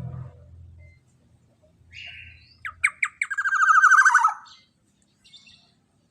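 Black-naped oriole giving a harsh call: a short rasp, a few sharp notes, then a loud, rapid rattling run of notes that falls slightly in pitch over about a second and a half.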